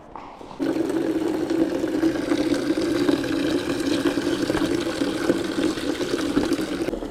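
Water running hard from a tap into a bucket, filling it for a sponge-down; it starts suddenly about half a second in with a steady rushing and a low hum.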